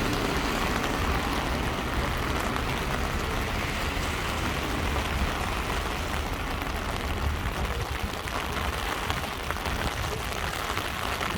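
Heavy rain falling on a city street: a steady hiss of rain with a low rumble beneath it.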